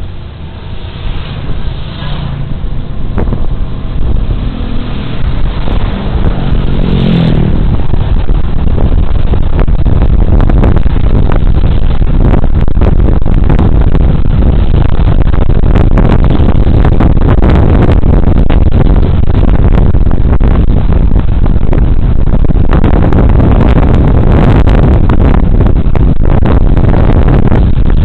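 Suzuki Burgman Street 125 scooter's single-cylinder engine pulling away, its pitch rising over the first seven seconds or so. Then loud, buffeting wind noise on the body-camera microphone at riding speed drowns out nearly everything else.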